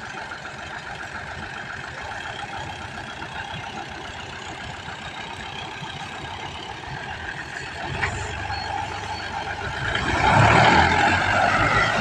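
Al-Ghazi farm tractor's diesel engine running steadily. A deeper rumble comes in about eight seconds in, and the engine grows louder about ten seconds in.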